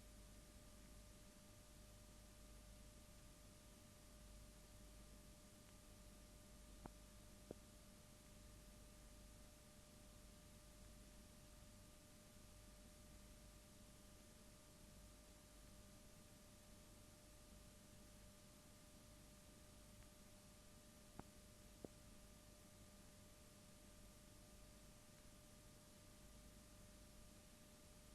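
Near silence: a faint steady hum and hiss with a thin, high, unchanging tone, broken twice by a quick pair of faint clicks.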